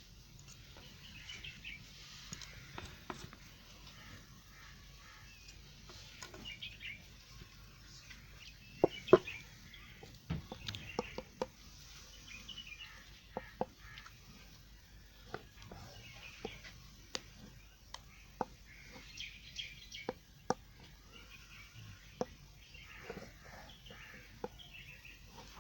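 A knife cutting into a bar of Safeguard pure white soap: short scratchy cuts and crisp clicks as pieces break off. The loudest clicks come in a cluster about nine seconds in.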